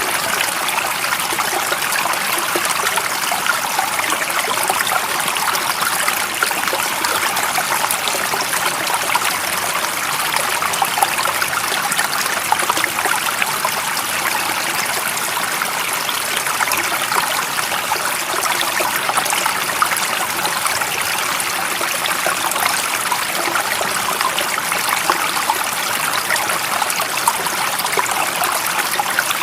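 A stream of water running and trickling steadily, an even rushing sound with fine splashing texture and no change in level.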